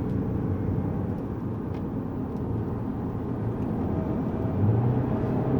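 Lexus GS200t's 2.0-litre turbocharged four-cylinder engine and road noise heard from inside the cabin as the car drives off on track, the engine note growing stronger near the end.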